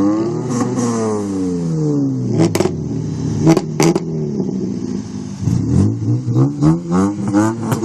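Car engine and exhaust revved hard, its pitch rising and falling in long sweeps, with a few sharp pops about two and a half to four seconds in, then a run of quick throttle blips near the end.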